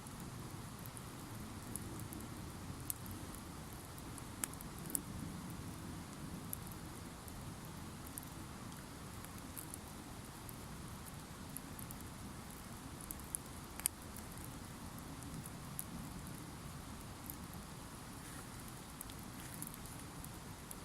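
Wood campfire burning, with scattered sharp crackles and pops over a steady low rush of the flames; the loudest pops come about five seconds in and near the middle.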